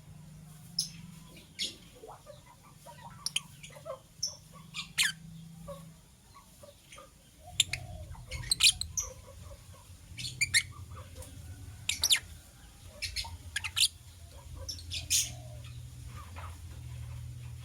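Lovebirds chirping: short, sharp high-pitched calls at irregular intervals, several close together around the middle, over a low steady hum.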